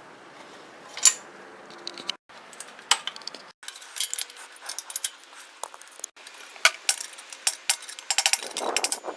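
Small metal clinks, clicks and knocks of tools and engine parts being handled during reassembly of a single-cylinder Briggs & Stratton engine, coming thicker in the second half and broken by a few brief gaps.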